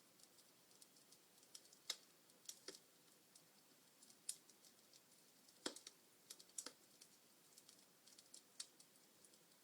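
Log fire crackling: quiet, irregular pops and snaps of burning wood, the sharpest about two seconds in and again just past the middle.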